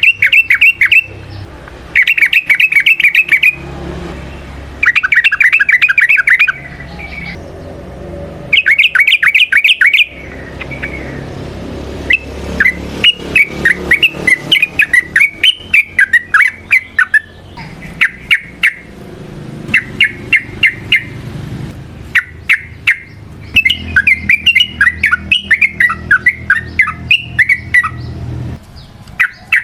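Yellow-vented bulbul (trucukan) singing: repeated short phrases of rapid, bubbling notes, each lasting about a second, with a low background rumble underneath that stops near the end.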